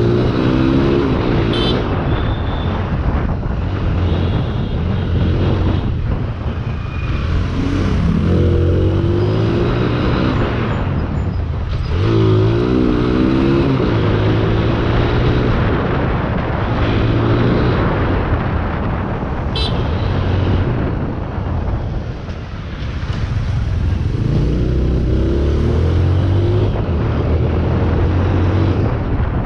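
Motorcycle engine running under way, its pitch rising several times as it accelerates and dropping back between, over a steady rush of wind and road noise.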